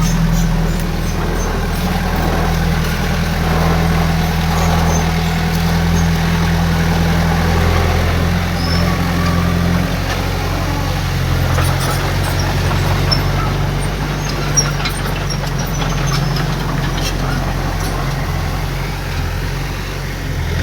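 Heavy diesel engine of earthmoving equipment running steadily, its note shifting about ten seconds in, with faint scattered clanks.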